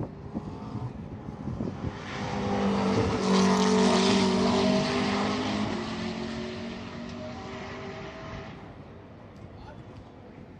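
GT3 race car passing at speed, its engine note swelling to a peak about four seconds in and then fading away.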